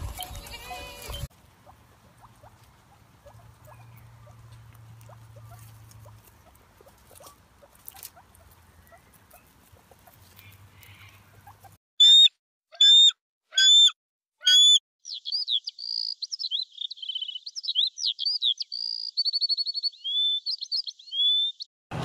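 Sheep and goats bleat briefly at the start, then a long quiet stretch. About halfway in, a bird gives four loud, high, clipped calls about a second apart, then a fast string of varied chirps and whistles that runs until just before the end.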